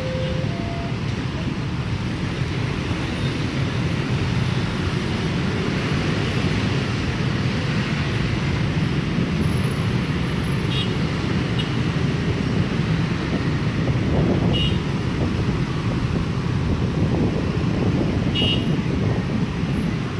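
Steady rumble of road traffic passing, with a few faint short ticks.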